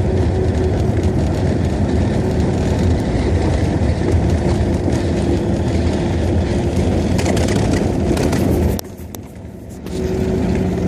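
Steady engine and road noise of a VAZ-2106 heard from inside the cabin while driving, with a low hum and a faint steady tone. Near the end the noise drops away suddenly for about a second, then comes back.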